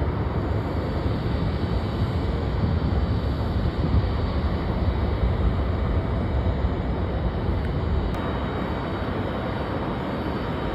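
Jet airliner engines making a steady, deep rumble.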